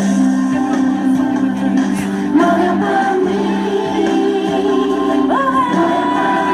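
Music with singing voices; about five seconds in, one voice slides up into a long held note.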